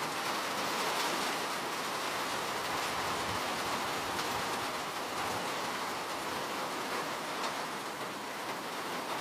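Steady rainfall, a continuous hiss of falling rain with a few faint drop ticks.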